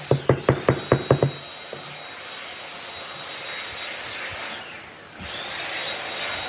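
A quick run of rhythmic strokes, about five a second, stops a little over a second in. A steady rushing machine noise with a faint high whine follows, dipping briefly near the end.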